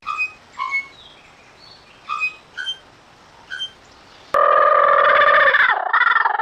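A bird giving about six short whistled chirps. About four seconds in comes a sudden, much louder steady tone like a telephone dial tone, which dips briefly in pitch near the end.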